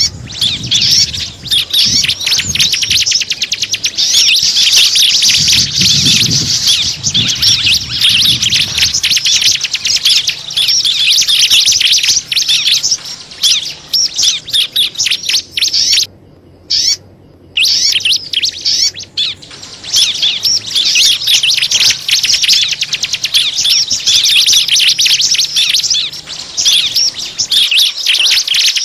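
Small songbirds chirping and twittering in dense, rapid, high-pitched trills, a lure call for attracting small birds. The calls break off briefly about sixteen seconds in.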